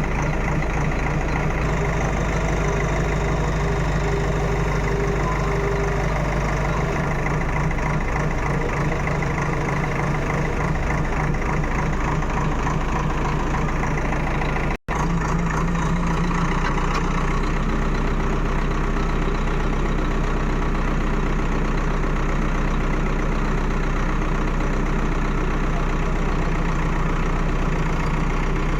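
Heavy engine running steadily at a constant speed, cut off for a split second about halfway through.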